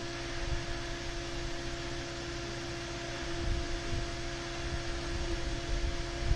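Steady electrical hum holding one pitch, over an even hiss, with low rumbling that swells briefly now and then.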